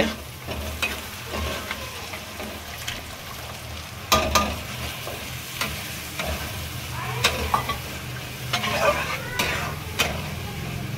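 Sliced onions and masala paste frying in hot oil in a metal kadai, stirred with a steel spatula that scrapes and clacks against the pan every second or two over a steady sizzle.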